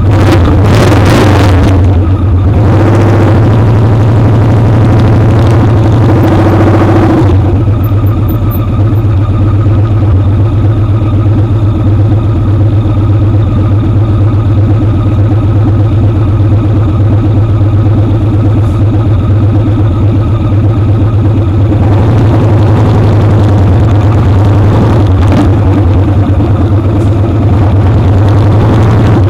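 Motorcycle engine running at a steady pitch at road speed, heard close up from the foot peg. Louder rushing noise builds over it in the first seven seconds and again about two-thirds of the way in.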